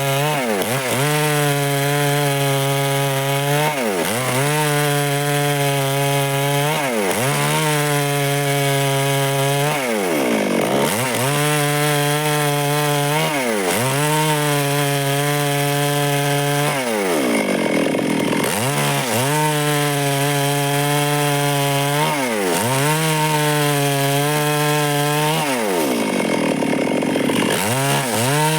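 Two-stroke Stihl chainsaw running at high speed, cutting wood. Its pitch dips sharply and climbs back about every three seconds.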